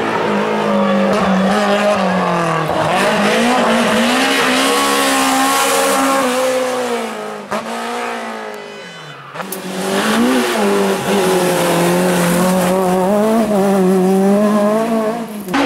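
Rally car engine at full throttle on a stage, its pitch climbing and falling through the gear changes. About seven and a half seconds in it lifts off and fades for a couple of seconds, then the engine comes back on hard.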